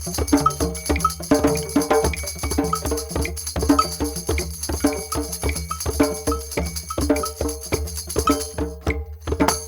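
Group drum session: several hand drums struck in a fast, dense rhythm, with jingling percussion ringing over the top.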